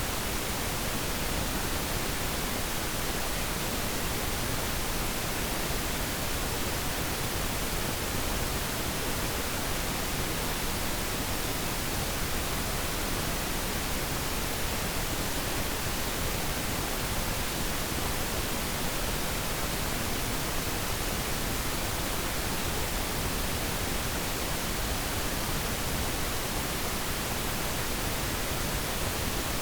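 Steady synthetic pink noise: an even hiss spread across all pitches, with less treble than white noise.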